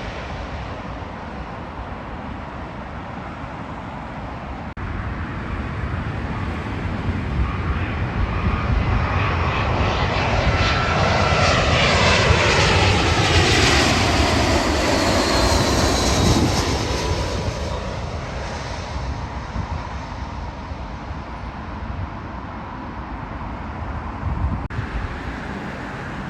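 Jet airliner flying past. Its engine noise swells to a peak about halfway through, and its whine slides down in pitch as it passes. It then fades back into a low rumble.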